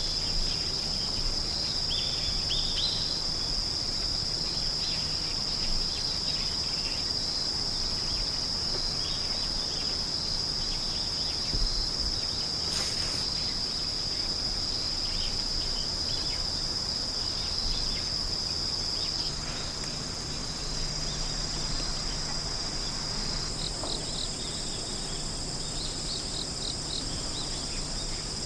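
A chorus of singing insects: a steady high-pitched trill throughout, joined near the end by a second, higher insect song and a run of short rapid chirps.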